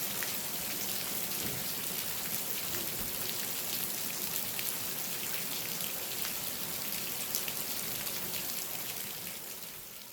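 Steady rain falling, with many individual drops ticking on hard surfaces close by; the sound fades out near the end.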